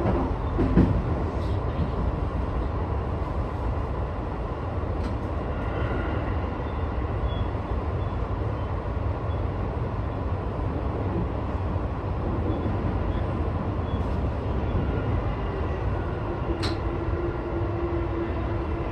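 Sotetsu 12000 series electric train, heard from on board: a steady low rumble as it runs into and stops at a station. A sharp click comes about a second in and another near the end, and a steady hum sets in for the last few seconds.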